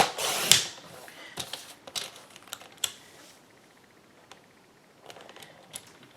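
Paper trimmer cutting two sheets of cardstock: a click and a quick half-second swish of the blade through the paper, then scattered light clicks and paper rustles as the cut pieces are handled.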